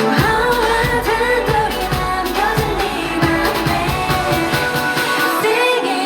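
K-pop song performed live at a concert: a woman singing over a pop backing track with a pulsing bass beat.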